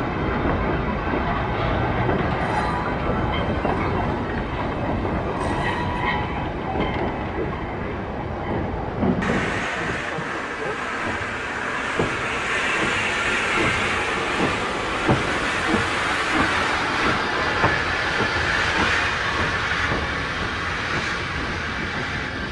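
Heritage railway train running, its wheels clattering over the rail joints over a low rumble. About nine seconds in the sound changes abruptly to a brighter hiss with scattered sharp clicks.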